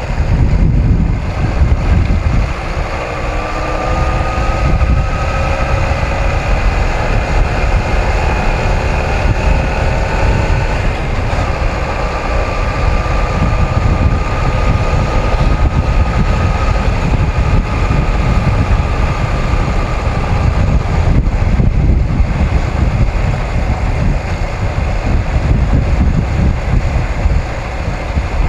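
Wind buffeting the microphone over the running of a Honda CM250T's twin-cylinder engine while riding, with the engine note climbing a few times and holding steady in between.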